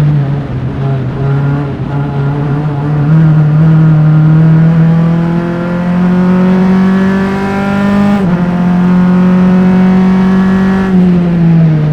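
A single-seater formula race car's engine, heard from close-mounted engine mics, accelerating hard with rising revs. It upshifts about eight seconds in, with a sudden drop in pitch, then pulls again, and the revs fall away near the end as the driver lifts off.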